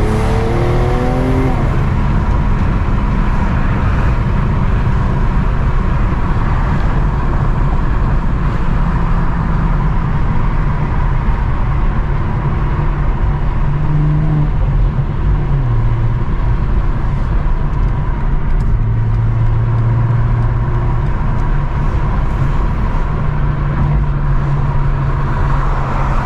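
BMW M340i's turbocharged 3.0-litre inline-six running while the car is driven, with a steady low rumble of engine and road noise. The engine note steps up and down several times.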